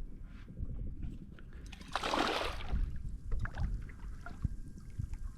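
Water sloshing around a small skiff over a steady low rumble, with scattered small knocks and a short rush of splashing noise about two seconds in.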